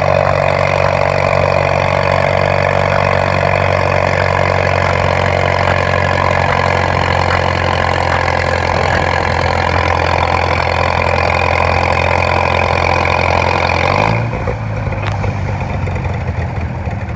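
Farmall M tractor's four-cylinder engine running steadily at full throttle under load during a pull, then throttled back abruptly about fourteen seconds in.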